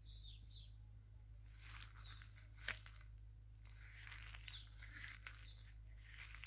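Faint short bird chirps every second or two, with rustling and crunching footsteps through dry grass and leaves about two seconds in.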